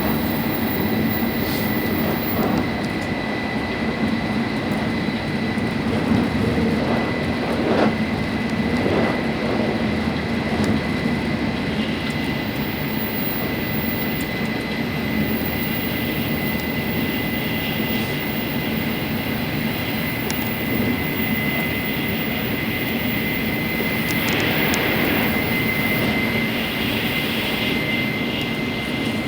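Tokaido Shinkansen running at speed, heard from inside the passenger car: a steady rumbling rush of running noise with a thin, steady high tone through it and a few faint knocks.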